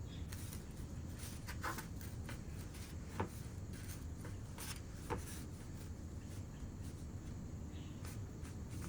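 Faint scrapes and light taps of coarse chamotte clay being worked by hand, with two sharper ticks about three and five seconds in, over a low steady hum.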